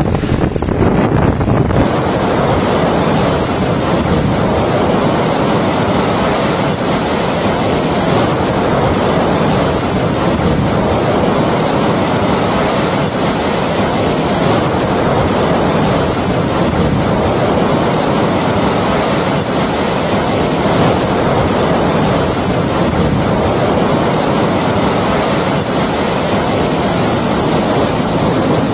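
Rough, heavy surf with strong wind buffeting the microphone: a steady, dense rush of waves and wind noise that grows brighter about two seconds in.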